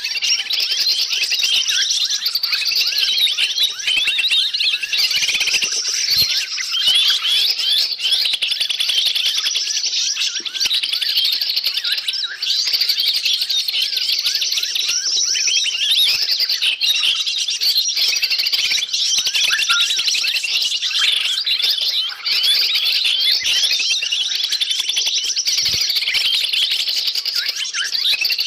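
Bird-lure recording of many small wild birds chattering and twittering together, a dense high-pitched mass of quick overlapping chirps and squeaks without a pause.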